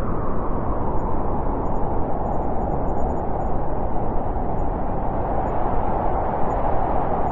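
Steady wind, a low, even rushing with no gusts or breaks.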